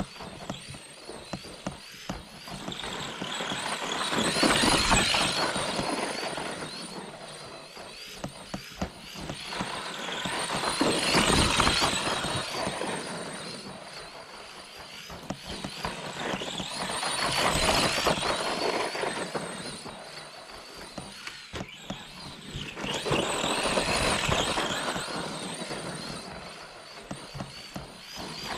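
ARRMA Granite 4X2 Boost RC monster truck's brushed electric motor and drivetrain whining as it drives, swelling and fading four times, about every six seconds. Short sharp clicks and knocks come between the swells.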